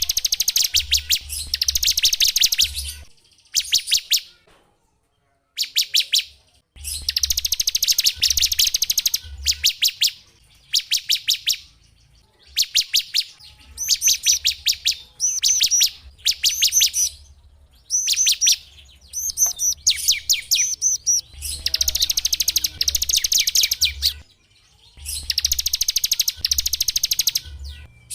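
Small songbird singing: phrases of very rapid, high trills lasting one to three seconds with short pauses between them, and some phrases of quicker down-slurred whistled notes in the middle.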